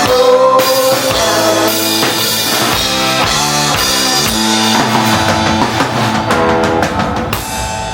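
Live rock band playing an instrumental passage: guitar over bass and drum kit.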